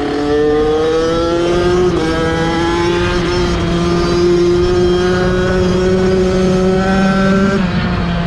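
Two Kawasaki dirt bikes, a KX65 and a KLX, running together under hard acceleration. One engine climbs steadily in pitch, drops at a gear change about two seconds in, climbs again and shifts once more near the end. A second, lower engine note runs steadily underneath.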